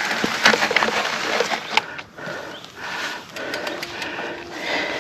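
Trek Rail electric mountain bike struggling up a steep, rough climb: tyres and frame clatter with sharp knocks over stones, then a faint whine from the Bosch motor under load.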